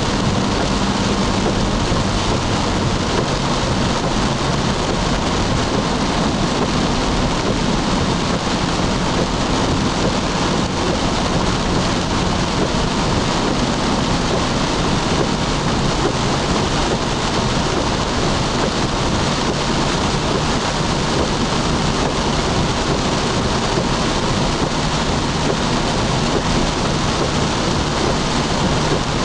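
Heavy rain on a moving car's windshield and roof, heard from inside the cabin, mixed with tyre noise on the wet road and a faint low engine hum; a steady, even noise with no sudden sounds.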